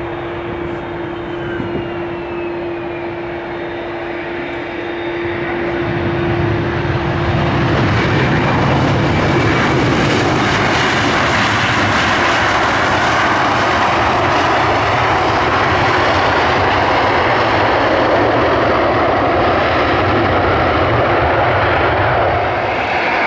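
Airbus A321 jet engines at first running with a steady whine, then rising over a few seconds, about five to eight seconds in, to a loud steady roar at high thrust, as in the run of a rejected-takeoff test.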